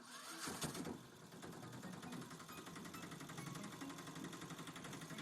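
A small motor buzzing steadily, with a louder burst about half a second in.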